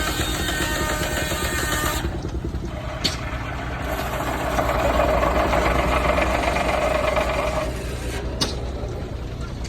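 Steam traction engine driving a sawmill, running steadily with a low pulsing beat. The noise grows louder for about three seconds in the middle, and there are two sharp clicks.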